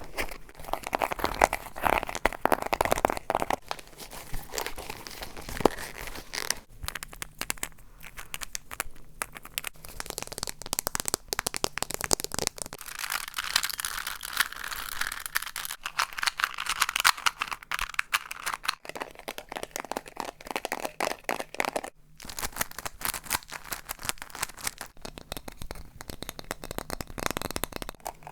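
A run of close-up ASMR triggers, mostly crinkling and crumpling of light material, with dense crackly handling noise. The texture changes every few seconds as one trigger gives way to the next.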